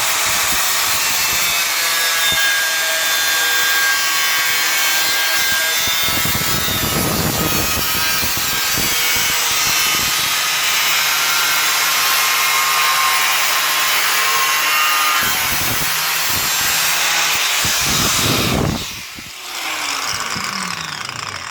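Angle grinder cutting through the sheet steel of a car's bulkhead, a steady cutting noise. About nineteen seconds in it is switched off and its pitch falls as the disc spins down.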